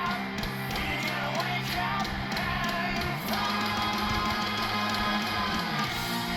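Heavy rock song playing, with distorted electric guitars and drums kicking in at full volume.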